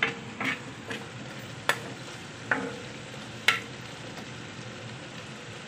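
Tomato-and-onion masala frying in a pan while a spatula stirs it, with a steady sizzle and about five sharp clacks of the spatula against the pan in the first few seconds.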